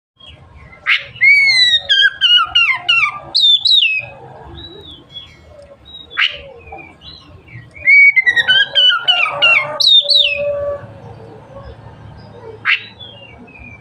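Oriental magpie-robin (kacer) singing: two loud runs of clear whistled notes sliding downward, about a second in and again around eight seconds, with sharp single upswept notes and softer, quieter phrases between them.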